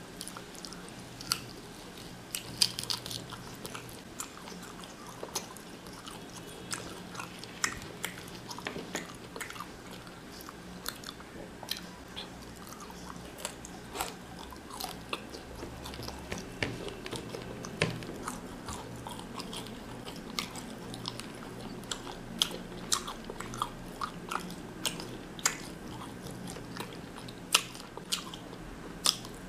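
Close-up chewing and mouth sounds of a man eating mutton biryani by hand: many short, irregular wet smacks and clicks. A low, steady hum runs underneath.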